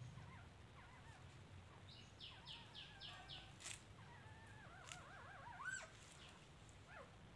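Faint birdsong: a quick run of five high notes about two seconds in, then warbling calls, with a few sharp clicks among them.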